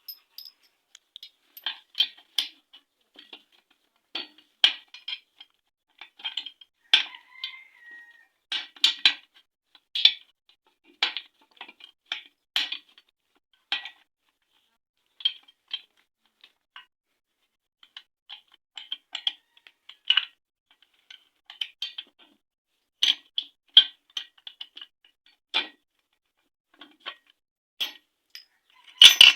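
Steel gearbox parts of a Honda Shine engine clinking and tapping together as the shift forks and their pins are fitted onto the gear shafts: an irregular string of short, sharp metallic clicks, with a louder knock near the end.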